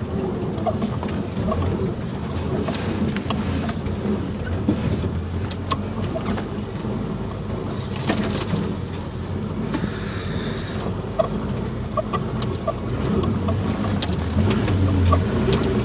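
Suzuki Jimny engine running steadily at low speed on a forest off-road trail, with scattered clicks and knocks over the hum.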